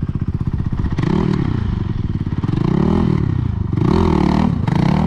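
Dirt bike engine running with a quick even pulse, then revved up and down several times.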